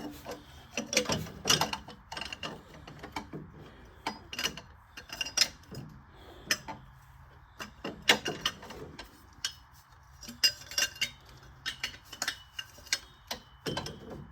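Irregular sharp metallic clicks and clanks from work on an AMC Eagle's engine, over a faint steady low hum. This happens while a metal-to-metal noise is being checked that is suspected to be the starter's Bendix drive hitting.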